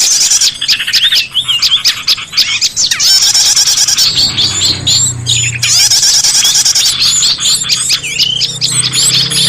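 A dense chorus of many small songbirds chirping and twittering at once: rapid, overlapping high trills and squeaky calls, as used in a bird-trapping lure recording. A low steady hum joins about halfway through.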